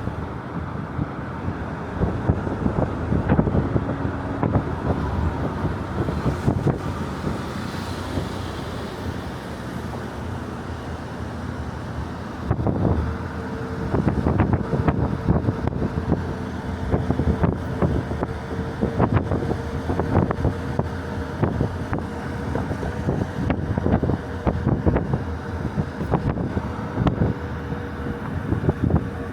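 Wind buffeting the microphone over a motor vehicle running, with many short knocks and gusts; a steady hum comes in about halfway through.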